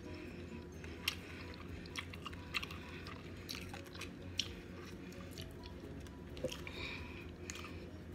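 Close-up chewing of seafood-boil shrimp, with scattered short clicks and crackles as shell-on shrimp are peeled, over a faint low hum.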